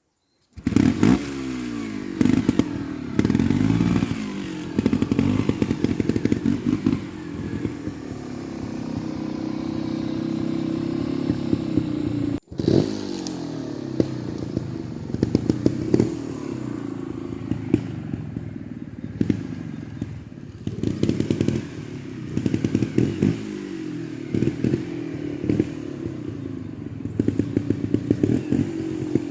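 Trials motorcycle engine revved in repeated short blips that rise and fall, with clattering and thumps from the bike throughout. The engine drops out briefly about halfway.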